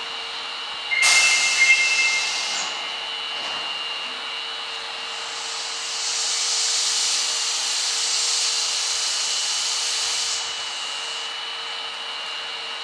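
Osaka Metro 25 series subway train: a sudden hiss of air about a second in, then a steady hum under a longer rushing hiss from about six to ten seconds.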